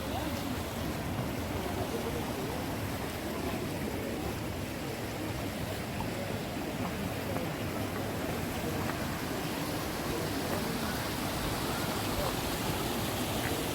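Flowing water rushing steadily, with faint voices in the background.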